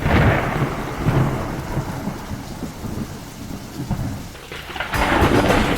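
Thunder rumbling over falling rain, a storm sound effect opening the song. About five seconds in, a louder hiss of rain swells suddenly.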